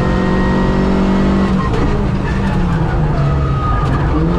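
Suzuki Swift 1.3 GTi 4x4 rally car's four-cylinder engine heard from inside the cabin, running hard at steady revs. The revs drop about a second and a half in and pick up again near the end.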